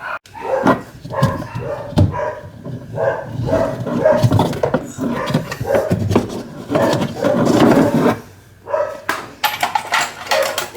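A dog barking repeatedly, with knocks mixed in.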